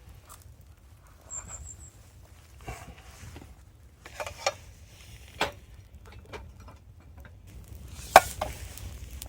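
Camp cooking gear being handled by hand: scattered clicks and knocks, the sharpest one near the end, over a steady low rumble. A short, high bird trill of a few quick notes about a second and a half in.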